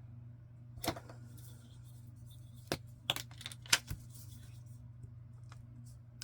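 Several sharp clicks and taps of paper and small craft supplies being handled on a work table, one about a second in and a cluster around three to four seconds in, over a steady low hum.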